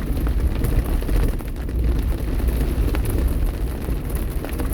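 Car driving in heavy rain: a steady low rumble of road and engine noise, with a hiss of rain and spray.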